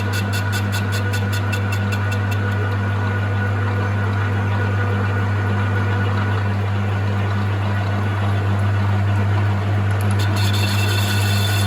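Metal lathe running at about 300 RPM with a steady motor hum while its cutting tool takes a half-millimetre pass across a cast iron gym weight. A light tick repeats about five times a second, once per turn of the work, for the first couple of seconds and again near the end.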